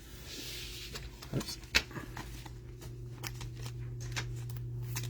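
Trading cards being handled and flipped through by hand: a string of light clicks and rustles of card stock, over a steady low hum.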